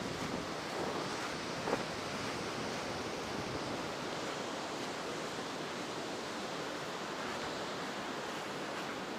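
Heavy ocean surf washing onto a sandy beach in the high seas after a typhoon, a steady noise of breaking waves, with a soft knock about two seconds in.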